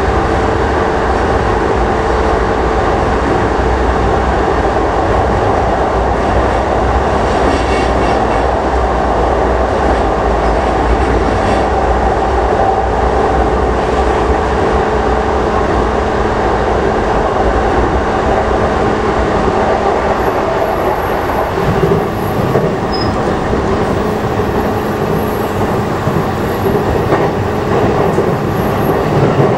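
Running noise inside a JR East E233-5000 series electric train car moving between stations: a steady rumble of wheels on rail with a constant hum. The low rumble eases about twenty seconds in.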